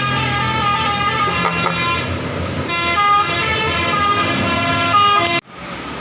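Dump truck's multi-tone air horn playing a stepping melody over the low rumble of heavy diesel engines. It cuts off abruptly near the end, leaving only steadier engine and traffic noise.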